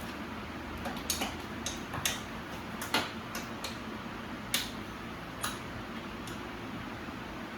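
Scattered sharp clicks and light metallic taps at uneven intervals, over a steady fan-like hum: tools and bicycle parts being handled during assembly.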